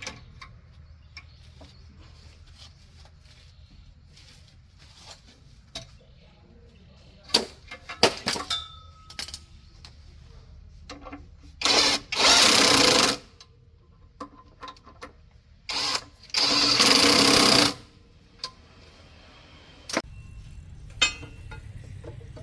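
A pneumatic tool runs in two loud bursts of about a second and a half, each after a short blip, a few seconds apart. Before them come scattered metallic clicks and knocks of tools being handled.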